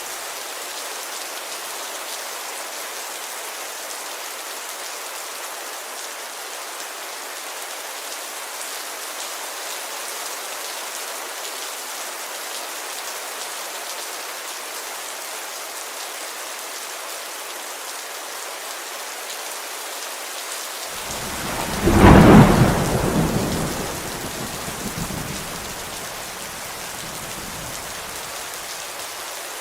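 Steady heavy rain falling on a window, with a loud thunderclap about three-quarters of the way in that rumbles away over a few seconds.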